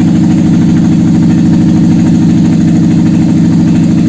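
Toyota 1ZZ-FE 1.8-litre inline-four petrol engine running at a steady idle on a test stand.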